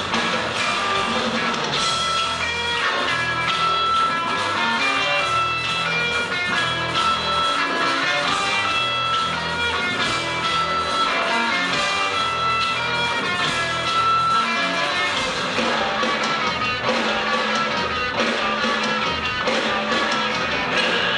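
Live rock band playing an instrumental passage, led by busy, fast-picked electric guitar over bass and drums.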